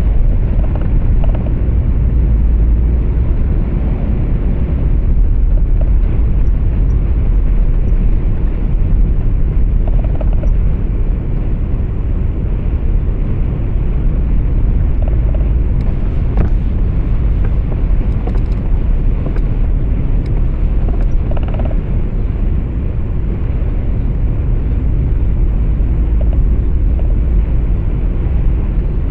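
Steady low rumble of a truck's engine and road noise heard from inside the cab while driving.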